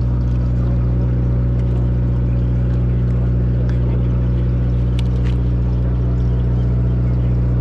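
A boat's engine running steadily, a low even hum with a steady pitch. A few light clicks sound about five seconds in.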